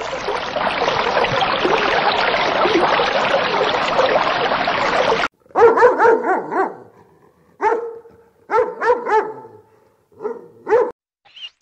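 A steady underwater rushing noise for about five seconds, cut off abruptly, then a dog barking in four short bouts of one to four barks each.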